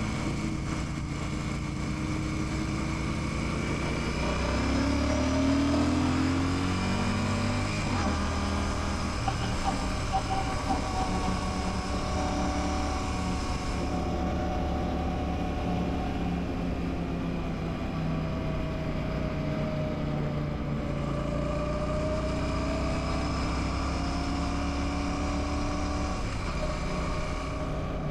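Royal Enfield Classic 650's 648 cc parallel-twin engine running on the move. Its revs climb a few seconds in and fall back sharply about eight seconds in, then hold with slow rises and falls.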